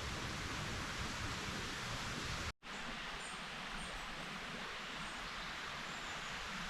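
Steady outdoor forest ambience: an even rushing hiss that drops out abruptly for a split second about two and a half seconds in, then resumes with a few faint high chirps.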